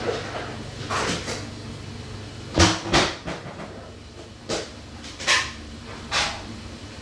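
About six short knocks over a low steady hum, the loudest two close together a little past the middle.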